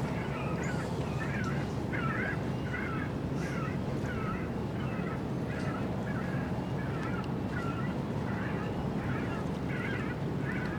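A bird calling over and over, a little more than once a second, in short goose-like honks, over a steady low rumble.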